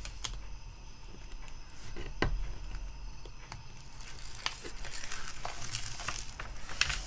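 Release paper crinkling and rustling as it is handled and peeled back from a sticky diamond painting canvas, with scattered small clicks.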